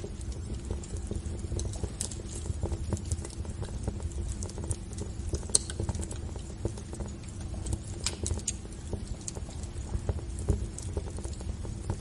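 Wood fire crackling in a fireplace: irregular sharp pops and snaps of burning logs over the low, steady rumble of the flames.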